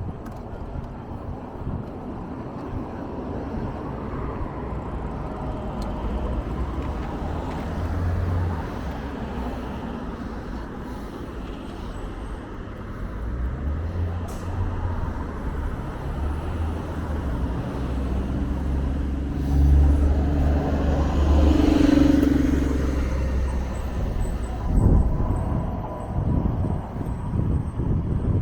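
A vehicle running with a steady low rumble that swells louder in the middle.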